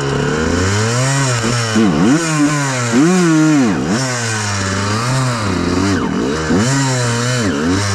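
Honda CR125R two-stroke single-cylinder engine revving up and down in quick throttle blips, its pitch rising and falling sharply several times.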